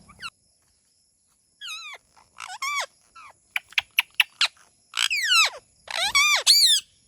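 Indian ringneck parrot calling: a run of sharp, high-pitched squawks that slide downward in pitch, mixed with short clicks. The calls start about a second and a half in and come louder and closer together in the second half.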